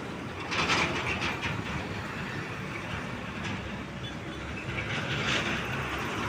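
Heavy truck engine running with a steady low rumble, with two spells of hissing, clattering noise, one about half a second in and one near the end.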